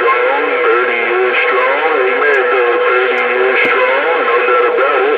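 CB radio receiver carrying several garbled, overlapping voices of distant stations. A steadier tone runs beneath the voices.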